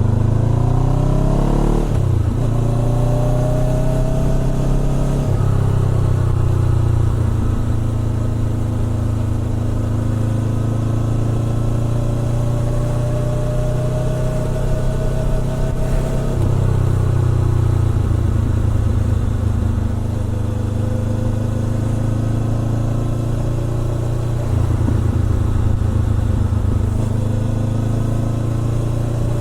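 Honda CBR400R parallel-twin engine running through a Trick Star Ikazuchi aftermarket exhaust while riding. The note climbs under acceleration and drops sharply at gear changes, once about two seconds in and again a little past halfway, and in between it holds near steady revs with a slow rise.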